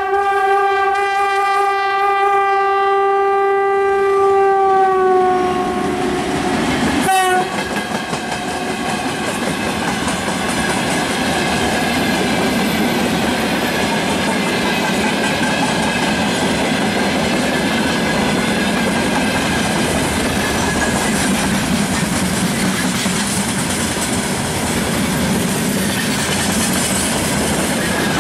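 VL11M electric locomotive sounding its horn in one long steady chord, the pitch dropping slightly as the locomotive passes; the horn stops about seven seconds in. Then a long freight train of tank cars rolls past with a steady noise of wheels on rails and clickety-clack over the rail joints.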